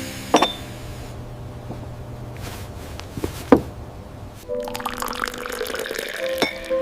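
Liquid pouring, with three sharp clinks spread through it. Soft music comes in about halfway through.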